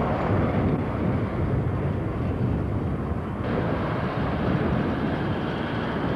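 Diesel-hauled passenger train running along the rails away from the listener: a steady low rumble. The sound changes abruptly a little past halfway through.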